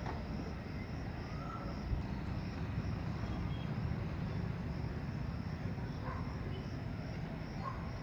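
Outdoor ambience: a steady low rumble, with insects trilling in an even pulsing band and a few short bird chirps.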